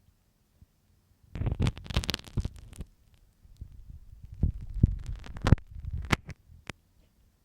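A marking pin scraping and tapping close inside an ear microphone: scratchy rustling in two spells, the second with several sharp clicks.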